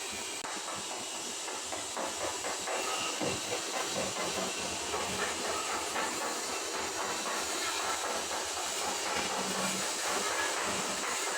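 Stick (SMAW) welding arc on carbon-steel pipe, a steady crackling hiss that grows a little louder about two seconds in.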